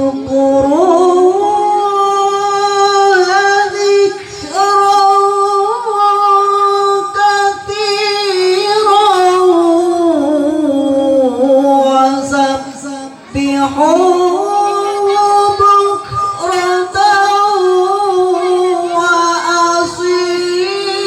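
Quran recitation (tilawah) by a qori in a high voice: long, melodic, ornamented phrases held on sustained notes, with a short break about thirteen seconds in before a new phrase rises.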